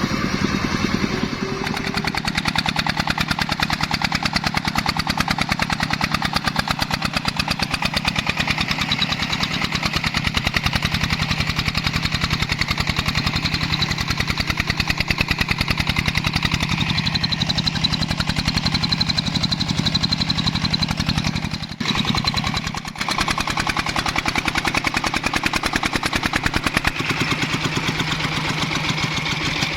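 Single-cylinder diesel engine of a công nông farm truck running with a rapid, even chugging beat, briefly dropping in level about three quarters of the way through.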